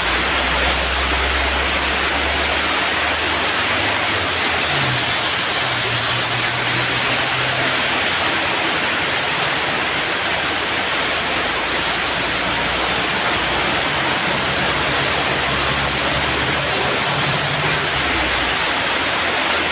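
Steady loud rushing noise with the low drone of heavy diesel truck engines beneath it, the drone rising and falling in pitch as trucks labour up a steep climb.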